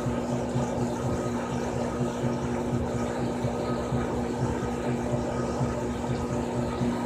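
Frigidaire Gallery Series top-loading washing machine (model FWS777GH50) running, with a steady motor hum and a fluttering low rumble.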